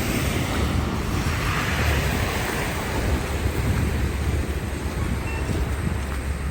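Wind buffeting the microphone in a snowstorm: a steady, fluttering low rumble under a rushing hiss that swells briefly about a second in.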